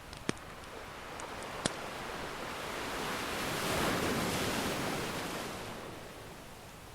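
Ocean surf: one wave swells in, loudest about four seconds in, then washes back out. Two sharp pops of a crackling wood fire sound in the first two seconds.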